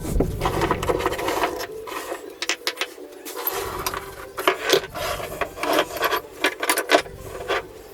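Irregular scrapes, knocks and rattles as the cylinder head of a BMW M54 straight-six is worked loose and lifted off the engine block.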